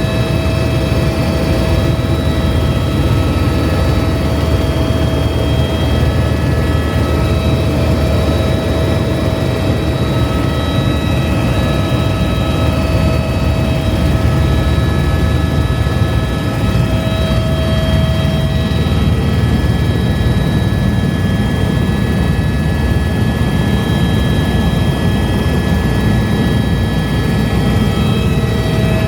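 Helicopter in flight heard from inside the cabin: a steady, loud drone of rotor and engine with several steady whining tones over it.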